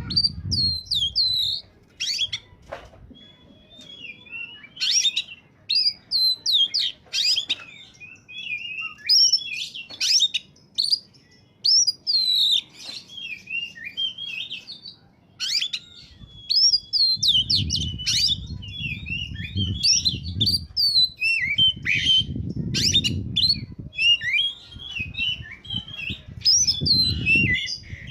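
Oriental magpie-robin (kacer) singing a fast, varied song of loud whistles, trills and sharp chirps, the vigorous full song that bird keepers call "on fire". A low rumbling noise comes and goes under it in the second half.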